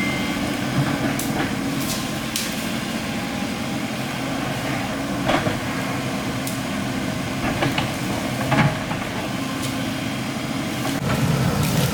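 Excavator's diesel engine running steadily, with a few sharp knocks and clanks scattered through.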